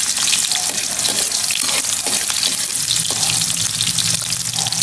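Chopped onion sizzling and crackling in hot oil in an aluminium wok as it is stirred, with the metal spoon knocking on the pan a few times.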